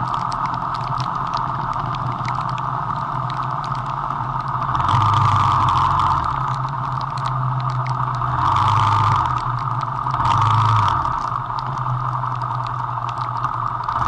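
Vento Rocketman motorcycle engine running on the move, its note swelling louder three times as the throttle is worked.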